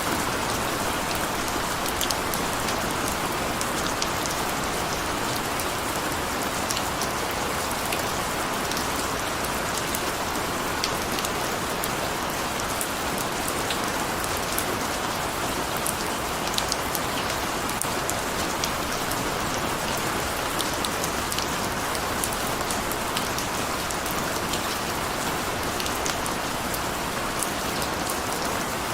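Steady rain falling, a continuous even patter with many small drop ticks scattered through it.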